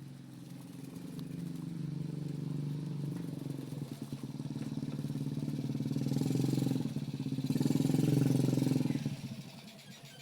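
A motorcycle engine passing by: it grows steadily louder for several seconds, peaks, then fades away about nine seconds in.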